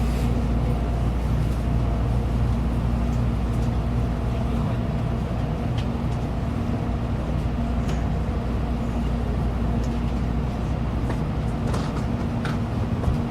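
Steady hum and low rumble of a Shinkansen train car standing at a station platform, with a few light clicks and knocks. The deepest rumble eases about five seconds in.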